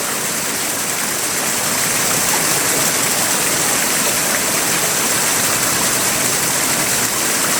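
Large waterfall rushing steadily, a loud, even wash of falling water.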